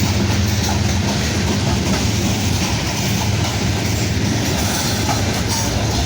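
Kansas City Southern freight train rolling past at close range, its cars' wheels clacking over the rail joints in a steady rumble. A low engine drone from the locomotive, which has just gone by, fades out about two seconds in.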